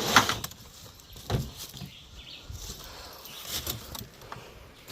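Crates of mangoes being pushed into place while loading: a scraping knock at the start and a single thump about a second later, then a few faint knocks.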